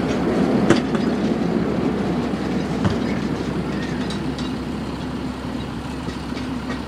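A passenger coach and caboose rolling slowly away over the rails: a steady rumble with a few sharp wheel clicks, fading as the train moves off.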